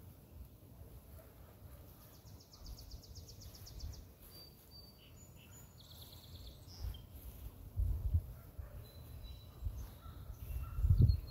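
Songbirds calling: a rapid trill of evenly spaced high notes a couple of seconds in, then several thin high whistles and a short buzzy note. Low rumbling thumps come in near the end, louder than the birds.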